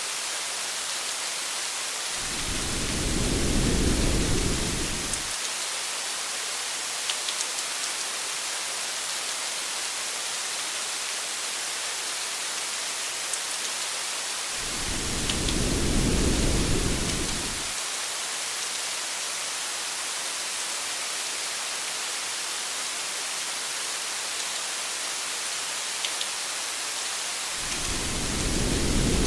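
Steady hiss of heavy rain with faint scattered drop ticks. A low rumble of thunder swells and fades three times, about two seconds in, midway and near the end, each lasting about three seconds at even spacing.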